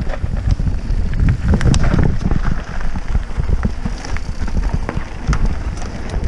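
Mountain bike riding fast over rough, rocky trail: wind rumbling on the microphone, with the bike rattling and clattering in many sharp clicks as the tyres hit rocks.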